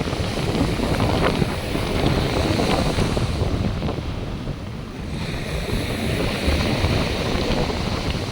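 North Sea surf washing onto the beach, with wind buffeting the microphone as a low rumble.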